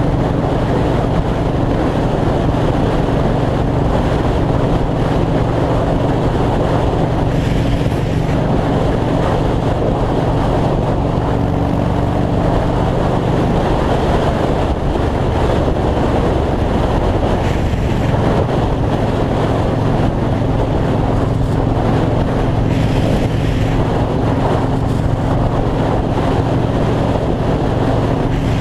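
2003 Yamaha Road Star's V-twin engine running steadily at highway speed, with wind rushing over the microphone. About halfway through the engine note shifts slightly lower, then holds steady again.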